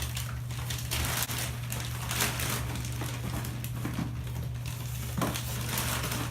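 Plastic bag of dry ice pellets crinkling and rustling as it is handled, irregular crackling with a steady low hum underneath.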